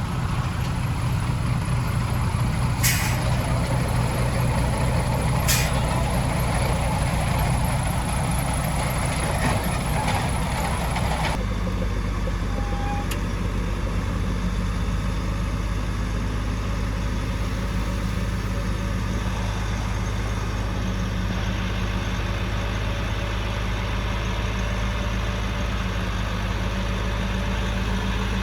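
Heavy diesel engine of construction machinery running steadily, with two short, sharp hisses of air about three and five and a half seconds in. About eleven seconds in, the engine note changes abruptly to a steadier drone.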